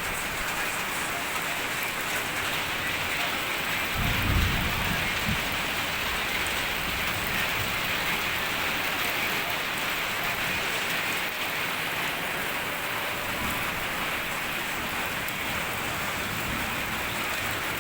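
Steady rain falling during a thunderstorm, with a short low rumble of thunder about four seconds in.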